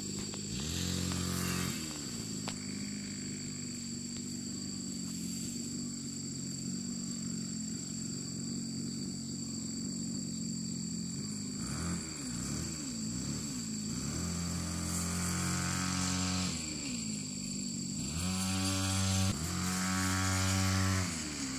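A small engine running steadily, its speed dropping and picking up again several times, most noticeably in the second half.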